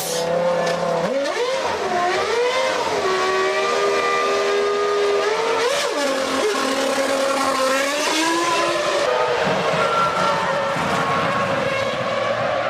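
Formula One car's V10 engine at high revs, its pitch climbing and dropping repeatedly as it runs through the gears, with a sharp rev spike about six seconds in.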